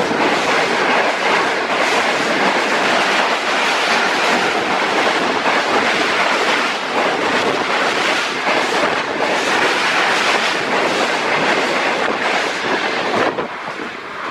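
Karakoram Express passenger train passing at high speed, a steady rush of coaches with wheels clattering over the rail joints. The noise drops away near the end as the last coaches go by.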